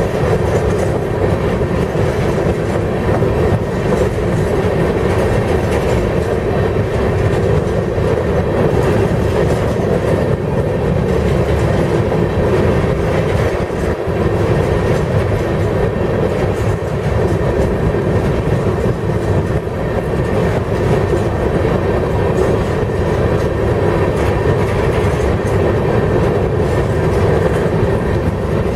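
Freight train hopper cars of a rock train rolling past at steady speed: a continuous loud rumble of steel wheels on the rails with clickety-clack over the rail joints.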